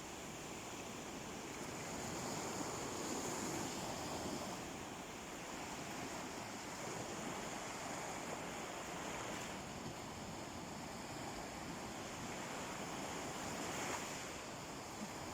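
Calm sea waves washing onto a beach: a steady wash of surf that swells and eases slowly, with no sharp crashes.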